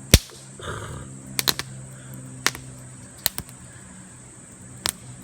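Wood campfire crackling: sharp, irregular pops and snaps, the loudest just after the start.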